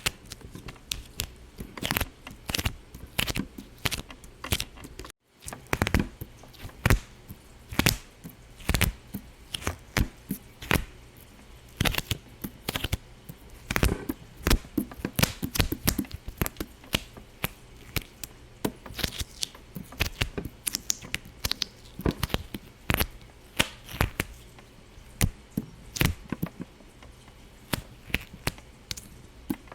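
Sharp pops and clicks at irregular spacing, a few a second, with the sound cutting out completely for a moment about five seconds in.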